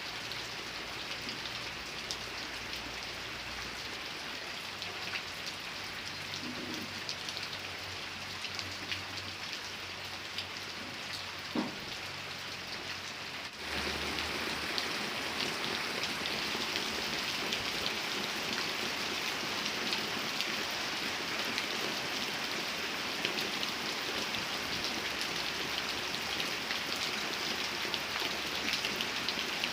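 Steady rain falling, with individual drops ticking through the hiss. About halfway through it turns suddenly louder and stays that way.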